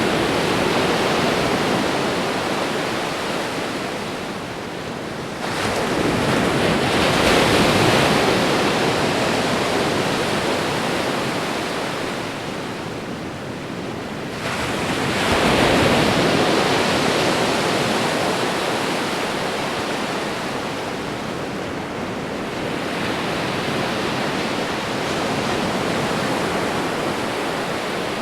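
Ocean waves breaking on a shore: a continuous rush of surf that swells as a new wave breaks about every eight to ten seconds, then washes back and fades.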